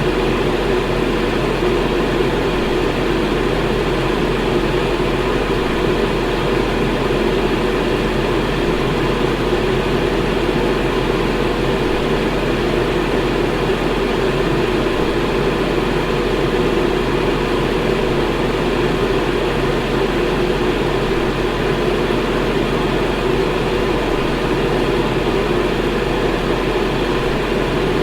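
Electric fan running steadily: an even rush of air with a low hum underneath, unchanging throughout.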